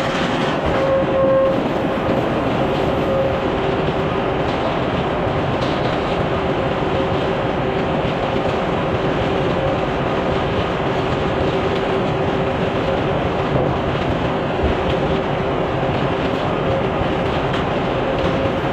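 Sawmill machinery running steadily: a dense mechanical rumble with a steady hum through it.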